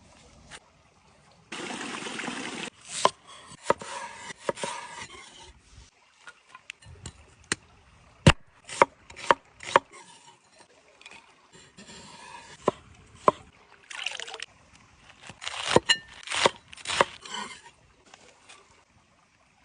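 Cooking sounds: a short pour of liquid, then irregular sharp knocks, clicks and scrapes, like utensils and cookware being handled. A second busy stretch of rustling and knocks comes near the end.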